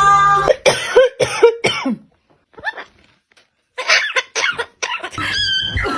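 A run of short cough-like sounds in two clusters with a near-silent gap between them, then music comes in near the end.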